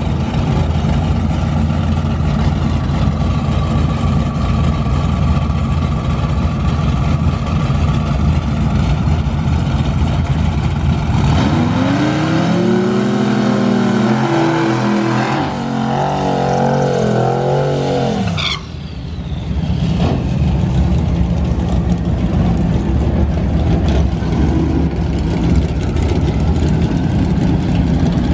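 Twin-turbo Mustang engine running loud and steady, revved up and held with a wavering pitch for several seconds about midway, then cutting off sharply back to a steady run.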